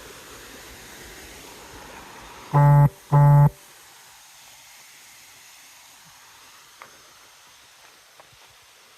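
Two short, low electronic buzz-beeps in quick succession, flat in pitch and switching on and off abruptly, over a steady background hiss.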